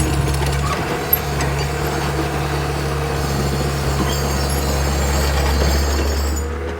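CAT 277B tracked skid steer's diesel engine running steadily.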